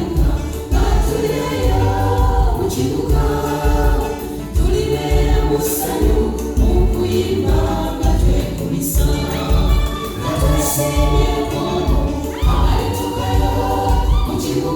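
A choir singing gospel music over a steady bass beat.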